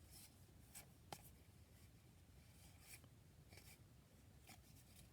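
Faint soft swishes of baseball cards being slid past one another by hand as a pack is flipped through, with one light click about a second in.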